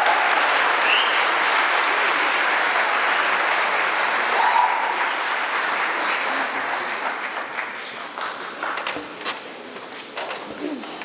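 Audience applauding. The clapping fades over the last few seconds to a few scattered claps and knocks.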